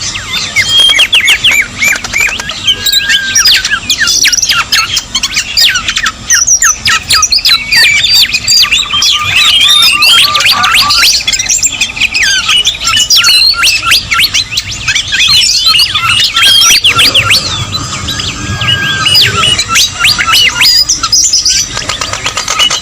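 A busy bird-lure recording in which many birds call at once: a dense, loud tangle of quick chirps, squawks and trills that overlap without pause until a short lull near the end.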